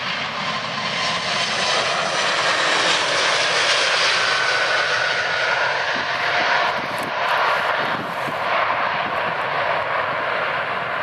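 Airplane engines passing close by, a loud steady rush with a faint whine that slides slowly down in pitch, swelling through the middle and easing off near the end.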